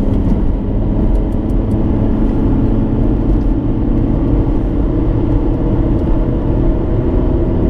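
Steady engine and road noise inside a moving car, a constant low rumble with a faint engine hum.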